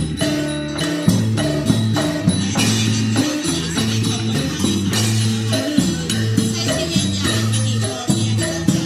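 Isan folk serng dance music played on the phin lute and khaen mouth organ, over a steady, busy percussion beat.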